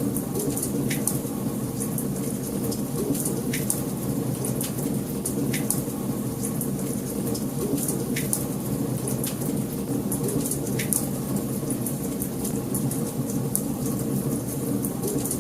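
Wood fire burning in a fireplace: a steady low rustle of flames with constant crackling and a sharper pop every couple of seconds.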